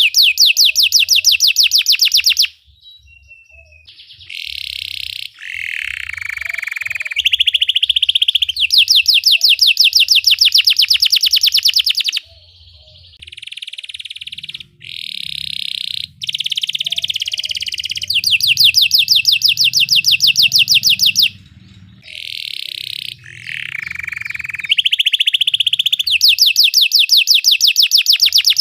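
Belgian canary singing a long, loud song of very fast rolling trills alternating with slower warbled phrases, broken by brief pauses.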